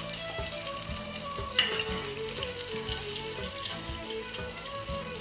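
Cereal-crusted Scotch egg deep-frying in hot oil in a pan: a steady sizzle full of fine crackles, with one sharper pop about one and a half seconds in. Soft background music plays underneath.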